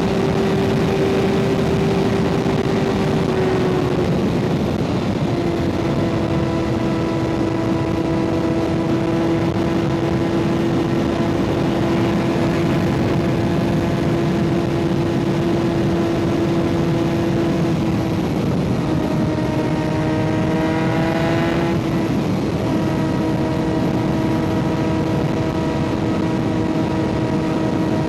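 Kawasaki ZX-6R 636 inline-four through an M4 aftermarket exhaust, running at a steady cruise. The engine note dips slightly a few seconds in and rises briefly about twenty seconds in.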